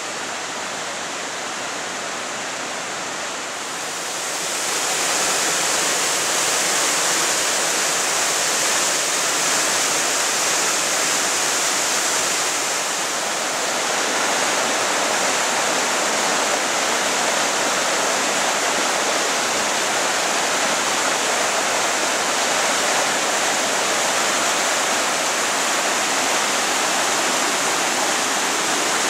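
Flash-flood water running fast down a wadi: a steady rush of water, growing louder about four seconds in.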